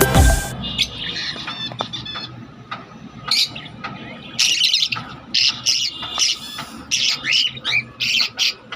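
Peach-faced lovebirds squawking and chirping: short, shrill calls repeated in clusters of one or two every second or so, busiest toward the end.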